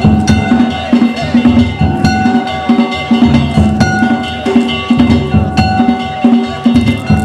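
Danjiri festival music: taiko drums and small metal hand gongs beaten together in a brisk, unbroken rhythm, the gongs ringing on between strokes.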